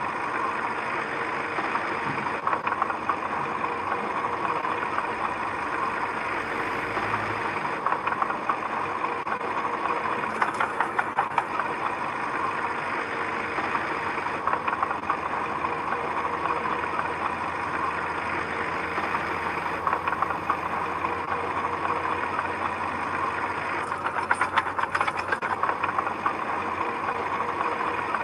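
Diesel engine of heavy earthmoving machinery running steadily, with a knocking rattle and bouts of heavier clatter about ten seconds in and again near the end.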